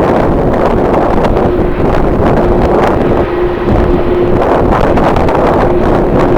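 Strong wind buffeting the microphone in heavy, continuous gusts. A steady hum runs underneath, showing through in the gaps between gusts.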